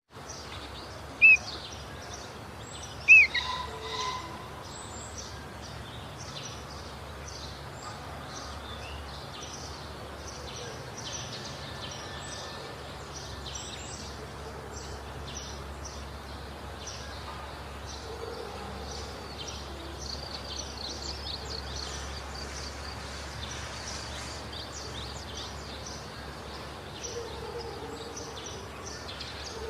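Young sooty-headed bulbuls (kutilang) calling: two loud, short, arched whistled calls near the start, then many faint, quick, high chirps going on throughout.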